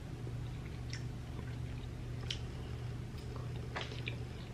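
Soft, wet chewing of a syrup-soaked gulab jamun, with a few short sharp mouth clicks, over a steady low hum.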